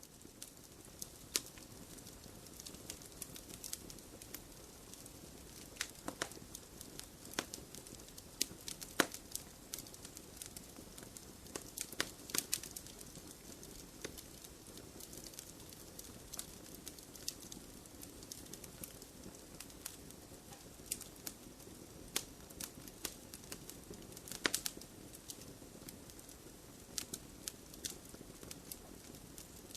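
Wood fire crackling in a fireplace: irregular sharp snaps and pops over a soft steady hiss of burning, with a few louder pops scattered through.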